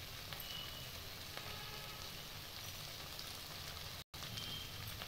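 Vegetable filling sizzling steadily in oil in a pan. The sound cuts out for an instant about four seconds in.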